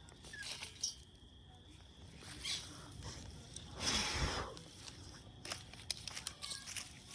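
Scattered rustling, crinkling and light clicks of things being handled and moved, with a louder brushing swish about four seconds in.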